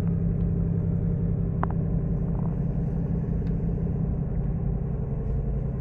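Steady low drone of a ship's engines and machinery, heard on board, with a constant hum and no change in pace. A faint short click about a second and a half in.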